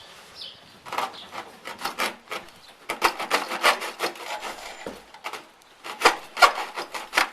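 Rough scraping strokes repeated about three times a second, in the manner of a saw or rasp worked back and forth, pausing briefly before four louder strokes near the end.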